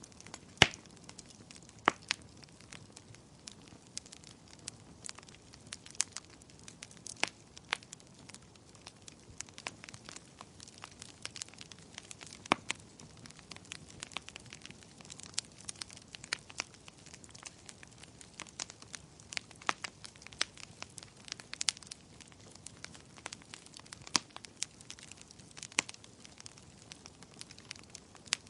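Wood fire crackling, with irregular sharp pops and snaps over a faint steady hiss; the loudest pop comes about half a second in.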